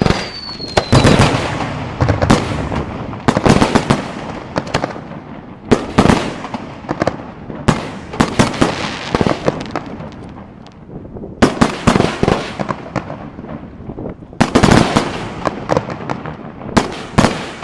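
Aerial fireworks display: shells and salutes going off in rapid clusters of loud, sharp bangs every second or two, with echoing crackle between them. A brief falling whistle comes right at the start.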